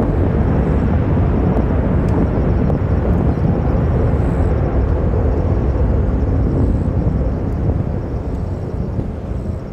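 Boeing 737-800's CFM56 jet engines, heard from outside during its landing: a loud, steady roar that starts to fade about eight seconds in.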